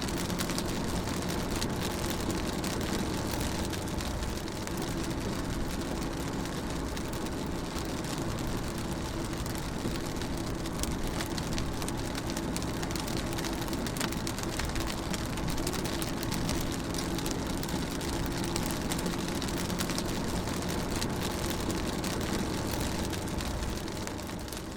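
Rain falling on a moving car, heard from inside the cabin, over a steady engine and road hum, with scattered drops ticking on the body. It begins to fade out near the end.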